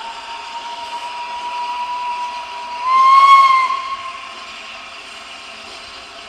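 Steam locomotive whistle sounding one long single-note blast that grows louder, peaks slightly higher in pitch about three seconds in, then fades away.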